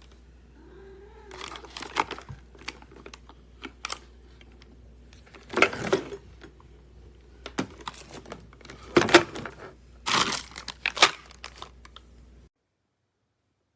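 Handling noise: irregular crinkling and rustling with sharp plastic clicks and knocks, in several bursts over a low steady hum. It cuts off suddenly near the end.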